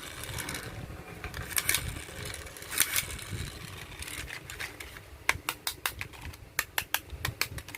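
Rustling and sharp clicks of a small plastic toy Jeep being handled, with a quicker run of separate clicks in the second half.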